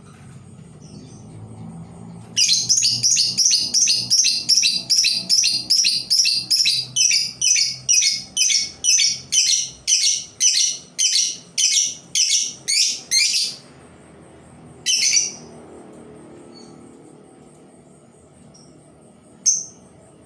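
Labet lure bird calling a long, loud run of quick, high, repeated notes, about two a second, for roughly eleven seconds. It then gives two more single notes a few seconds apart. A faint steady high tone runs underneath.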